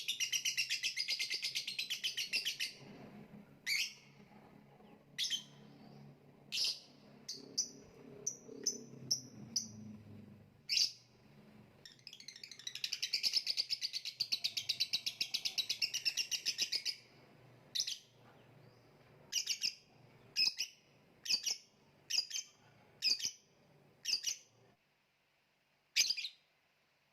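Lovebird calling: two long, rapid, chattering trills, the first at the start and the second near the middle, each with sharp, shrill single chirps about a second apart before and after it.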